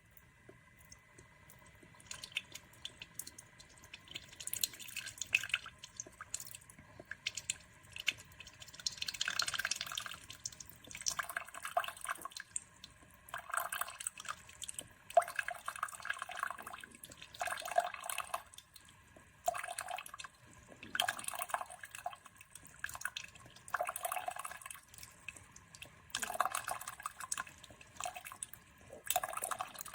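Horavie Mini single-serve coffee maker brewing: hot water sputters and drips into the cup in irregular gurgling bursts, over a faint steady tone.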